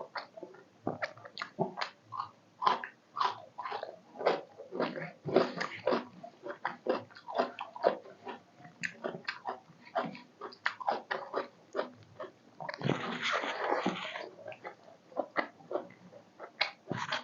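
Close-miked eating of chicken curry with rice: wet chewing and lip smacking in quick, irregular clicks, with a longer, noisier rustle-like burst about thirteen seconds in.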